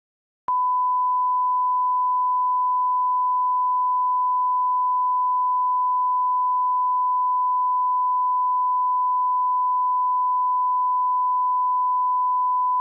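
Steady 1 kHz sine-wave line-up test tone at −18 dBFS, the reference level for aligning audio, starting with a small click about half a second in and holding one unchanging pitch and level.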